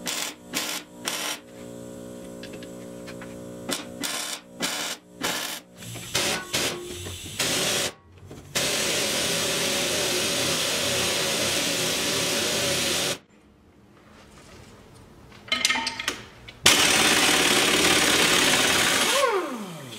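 Metal workshop work on an improvised steel hub-puller tool: a run of sharp knocks and clanks, then two stretches of steady, loud power-tool noise. The second stretch ends near the end in a falling whine as the tool spins down, as an angle grinder does.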